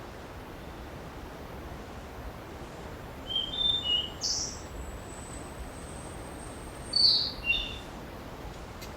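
Wild songbird singing in forest: two short phrases of high chirping notes, about three and a half seconds in and again about seven seconds in, over a steady background hiss. A thin, high, steady tone carries on between the phrases.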